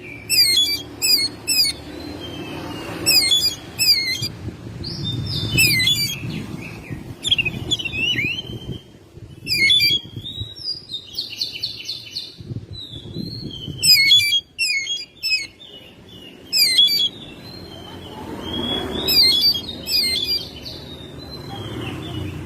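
Oriental magpie-robin singing: bursts of rapid, sharp whistled notes and trills, repeated over and over with short breaks between phrases.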